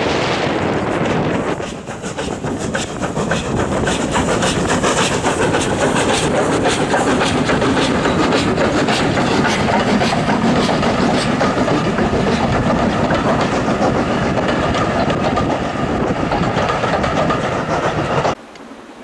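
Steam-hauled train passing close by, its wheels clicking rapidly over the rail joints under a steady rumble. The sound cuts off suddenly near the end.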